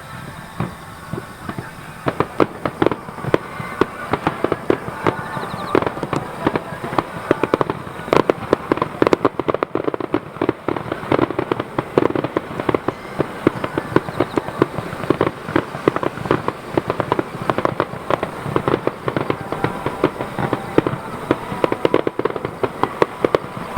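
Fireworks going off in a dense barrage of rapid bangs and crackles, many a second, picking up about two seconds in.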